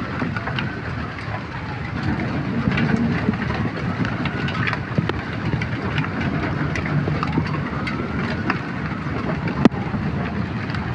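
Hail coming down hard: a dense, steady patter with many sharp clicks of hailstones striking hard surfaces, and one louder crack near the end.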